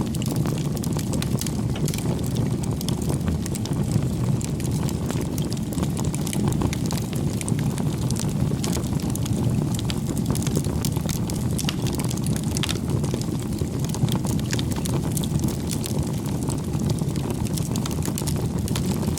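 Wood fire burning: a steady low roar of flames with scattered sharp crackles and pops throughout.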